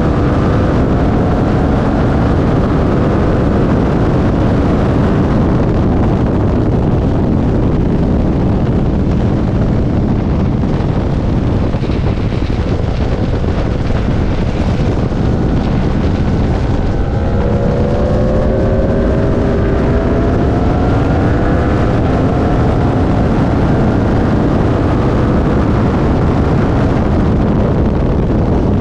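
Loud wind rush and buffeting on a camera mounted on an Aprilia Tuono V4 RR at track speed. Underneath it is the V4 engine, whose note rises in pitch a few times past the middle.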